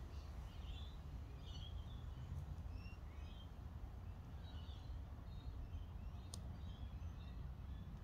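Birds chirping over a steady low rumble of wind on the microphone, with a single sharp click about six seconds in.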